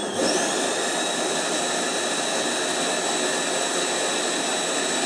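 Vacuum cleaner motor switched on, its whine rising quickly, then running steadily with a high whine and a rush of air, starting to wind down at the very end. With a part taken out it makes the right sort of sound, which leads the owner to think that part, with its damp filter, was the cause of the lost suction.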